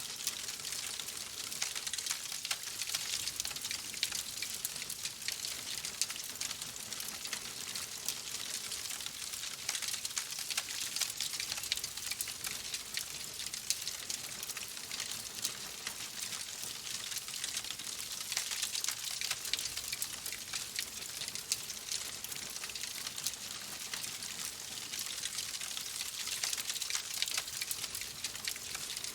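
Wood fire in a fireplace crackling steadily: a dense stream of small pops and snaps over a soft hiss.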